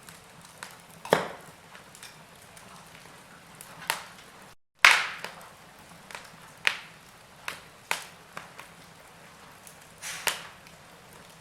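Burning logs crackling in a fireplace: sharp pops and snaps at irregular intervals over a soft hiss. The sound cuts out for a split second about five seconds in, and the loudest pop comes right after.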